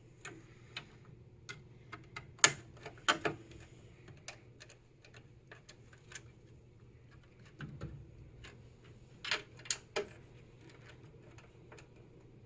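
Scattered clicks and taps of small metal and plastic PC parts being handled while a drive and its SATA cables are fitted inside a computer case. The sharpest clicks come about two and a half to three seconds in and again around nine to ten seconds in.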